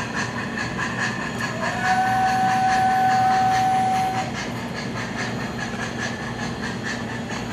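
MTH Proto-Sound 2 steam sounds from an O-gauge PRR A5 0-4-0 switcher model: steady chuffing and hiss as it runs on the track, with one steady whistle blast of about two and a half seconds starting about two seconds in.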